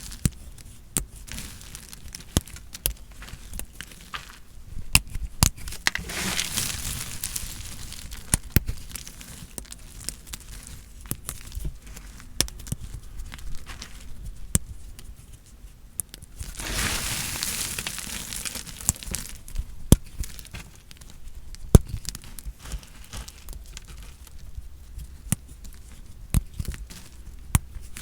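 A knife cutting through dry, hard soap: crisp crunching and crackling with many sharp clicks as pieces snap off. There are two longer, louder scraping cuts, one about six seconds in and one about seventeen seconds in.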